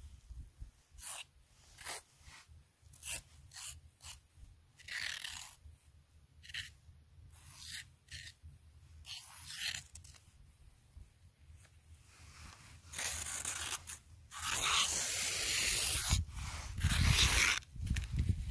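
Footsteps crunching in snow, separate steps about a second apart. Near the end the crunching turns louder and continuous for a few seconds.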